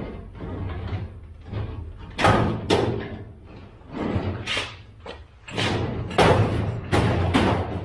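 About a dozen irregular bangs and thuds from work on a metal cabinet, the loudest coming in the second half.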